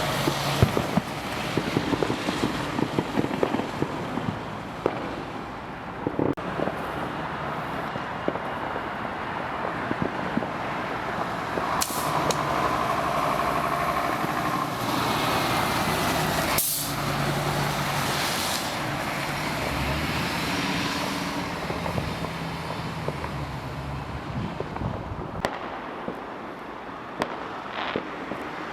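Fire engine's diesel engine running on the road amid traffic noise, with an air-brake hiss and a few sharp cracks.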